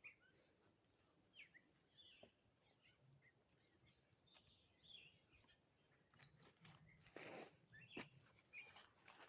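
Faint birdsong: scattered short chirps and calls from several small birds, with a brief louder noise about seven seconds in.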